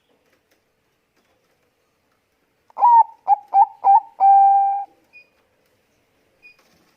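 Bangkok-bred zebra dove (perkutut) cooing: after a silence of almost three seconds, a phrase of four quick clipped notes ending in one long held coo.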